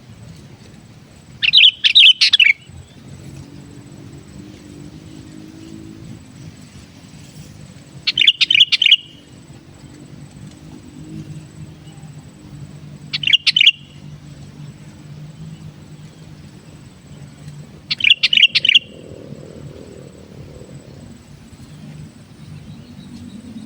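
Sooty-headed bulbul singing short, bubbly phrases, four times about five seconds apart, each lasting under a second. A steady low hum runs underneath.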